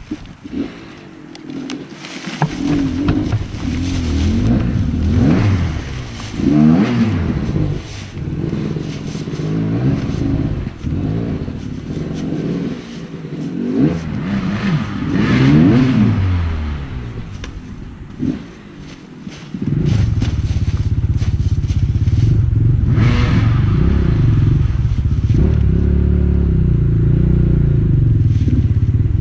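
Enduro dirt bike engine revved up and down again and again, then, about two-thirds of the way in, running loud at steady revs.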